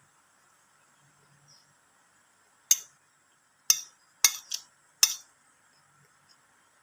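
Close-miked eating sounds: five short, sharp clicks in the second half, over a faint steady hum.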